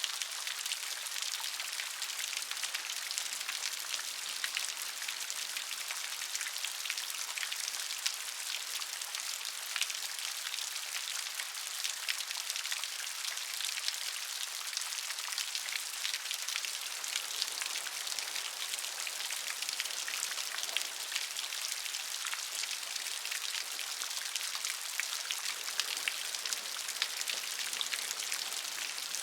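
Steady gentle rain: an even hiss of falling rain with many small drop ticks on a surface.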